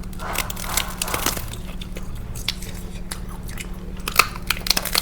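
Close-up chewing and biting of crunchy food, with irregular crisp crunches.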